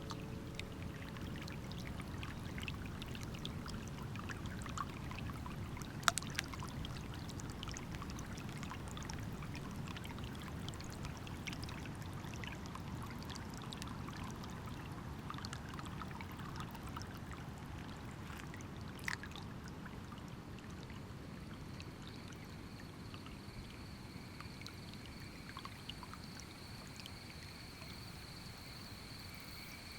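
Steady rush of running water, with a few sharp clicks. About two-thirds of the way in, an insect starts a steady high chirring.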